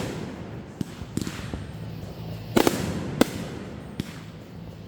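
Fireworks going off: a string of sharp bangs, the loudest a quick double burst about two and a half seconds in, with echoing rumble and crackle between them.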